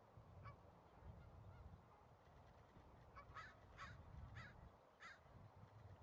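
Short, clipped bird calls: one about half a second in, then four or five in quick succession, roughly half a second apart, from about three to five seconds in, over a faint low rumble.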